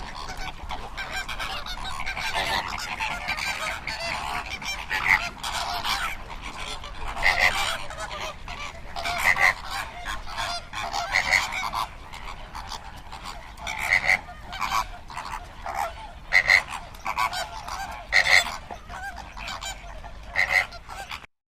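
A flock of flamingos calling: a continuous din of many birds, with loud single honks standing out about every two seconds, cutting off abruptly near the end.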